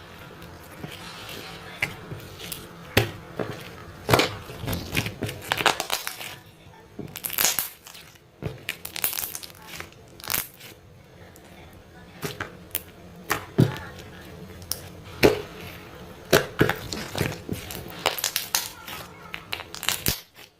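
Irregular crackling and crinkling noises, many sharp clicks at uneven intervals, over faint background music.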